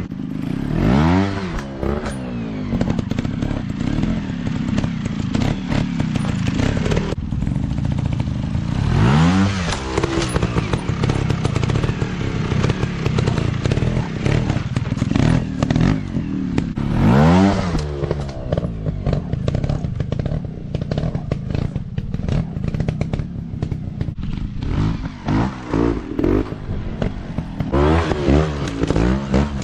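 Dirt bike engines revving up and falling back again and again while riding off-road, the pitch climbing sharply about a second in, around nine and seventeen seconds in, and several times near the end. A rattling clatter runs beneath the engine noise.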